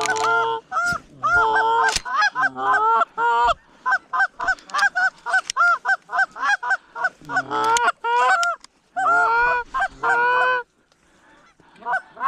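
Geese honking and clucking, several at once in quick overlapping bursts, breaking off about ten and a half seconds in, with only a few faint honks after.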